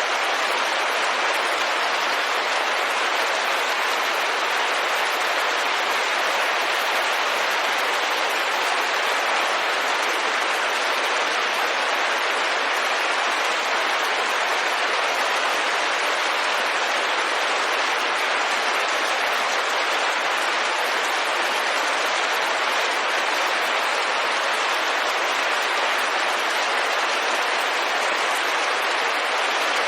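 Rain falling steadily on a window: a dense, even hiss with no single drops or gusts standing out.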